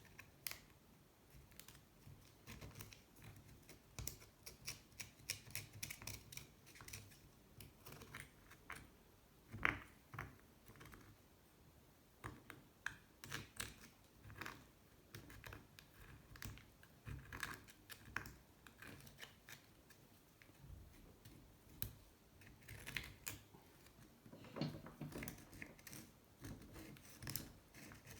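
Irregular short scrapes and clicks of a tool working caked gunk out of an aluminium motorcycle engine case, the oil, sand and saltwater deposits of a submerged engine.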